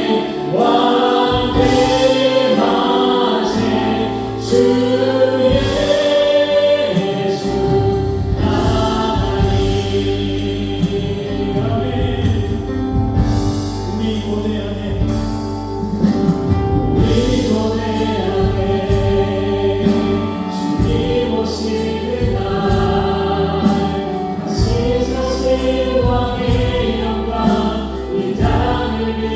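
Live praise band playing worship music: keyboards and synthesizer, electric guitar, bass guitar and drums, with singing voices over a steady drum beat.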